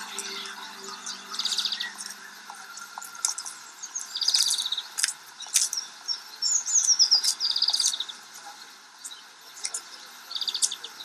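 Songbirds singing: short fast trills and falling runs of high chirps, repeating every few seconds.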